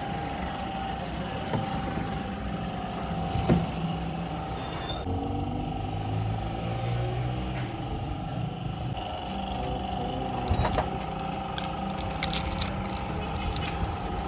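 Car engine running steadily with a constant whine, broken by a few short knocks: one about three seconds in, one about ten seconds in, and several near the end.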